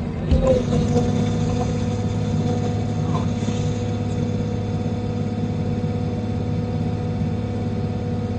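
Logging processor's diesel engine running steadily, with a brief clunk about half a second in.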